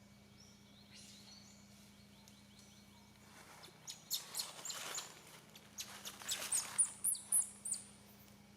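A run of short, very high-pitched animal chirps and squeaks, starting about three and a half seconds in and coming thickest in the second half.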